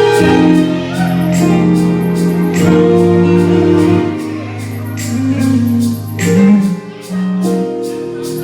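Live gospel music: a band playing sustained, held chords over a steady drum beat.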